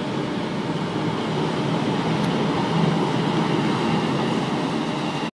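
ÖBB S-Bahn electric commuter train pulling out of the station, with a steady rumble of wheels and running gear that swells slightly about three seconds in.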